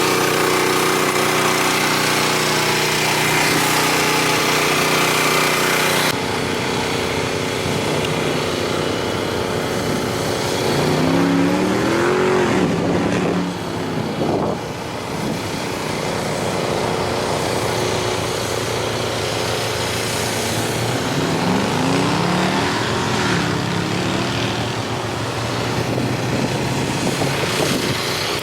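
Car engine running steadily. After a sudden change, engines are revved up and back down twice, about ten seconds apart.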